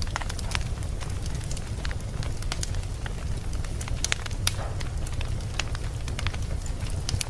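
Wood fire burning in a fireplace, crackling with many sharp, irregular pops over a steady low rumble.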